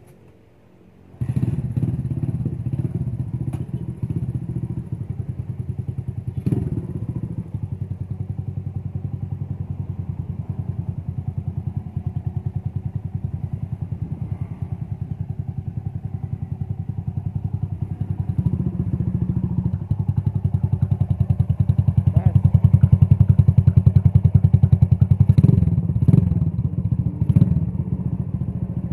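1973 Honda CB100's single-cylinder four-stroke engine starting about a second in, then running with a quick, even beat. It gets somewhat louder about two-thirds of the way through, with a few sharp knocks.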